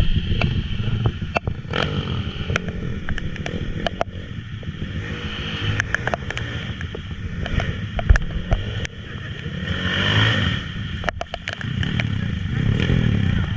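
Small underbone motorcycle engine revving, its pitch rising and falling several times as the throttle opens and closes, with scattered clattering knocks.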